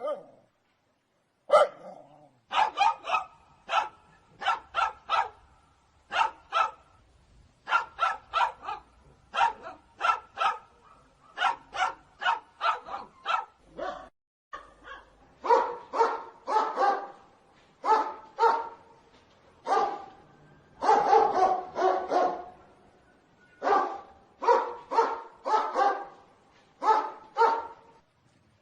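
Dogs barking repeatedly in quick runs of two to four barks, with short pauses between runs.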